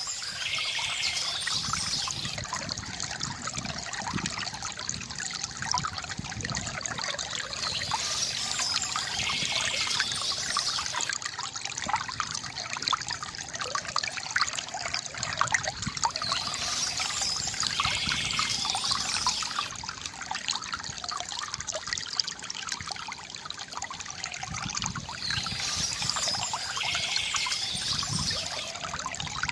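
Water trickling and gurgling steadily from a bamboo fountain spout into its basin, with many small splashes.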